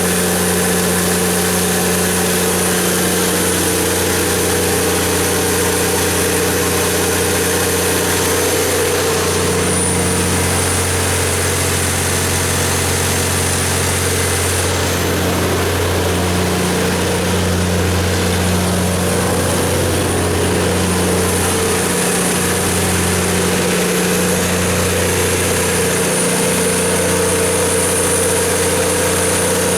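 Cummins KTA19-G4 turbocharged inline-six diesel engine of a 500 kW generator set running steadily at constant speed, a deep even drone with a thin high whine over it.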